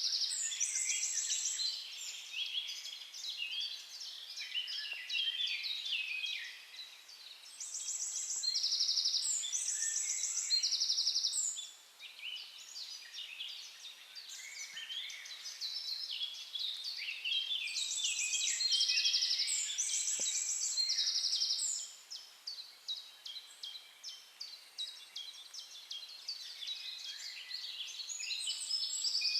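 Several songbirds singing at once in a dense chorus of fast trills and chirps, with short stretches where the singing thins out.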